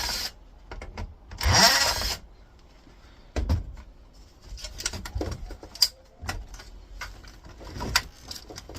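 Power screwdriver running once briefly with a rising whine, backing out a screw from a monitor's metal plate. It is followed by scattered clicks and knocks of the loosened plate and screws being handled.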